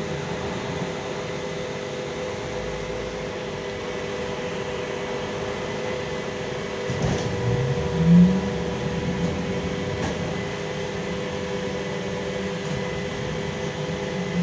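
A LiAZ-5280 trolleybus under way, heard in the passenger cabin: a steady hum with several held tones over an even background noise, and a brief low thump about eight seconds in.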